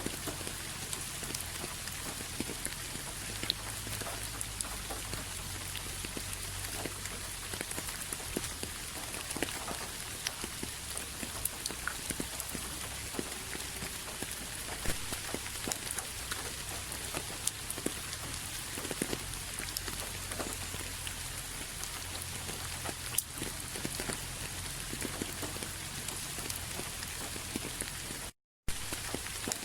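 Steady rain falling, an even hiss dotted with many individual drop hits. The sound cuts out completely for an instant near the end.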